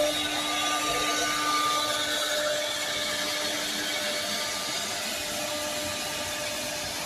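CNC router spindle running steadily, with a constant pitched tone over a broad machining noise.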